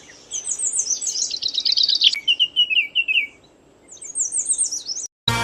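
Songbird singing: quick chirps and fast trilled phrases in two runs, with a short pause between them.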